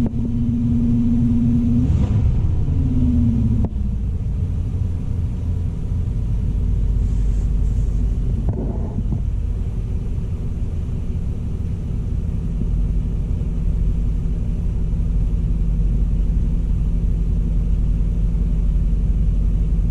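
1987 Oldsmobile Cutlass Salon's 307 V8 idling, heard from inside the cabin as a steady low rumble. A steady hum over it drops in pitch and cuts off about four seconds in.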